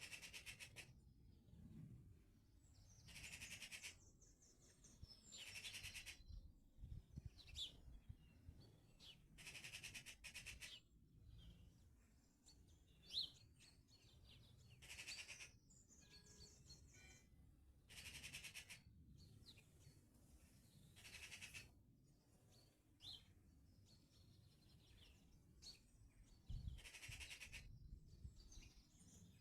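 Faint songbirds singing, with short song phrases of about a second repeating every few seconds and a few brief chirps between them.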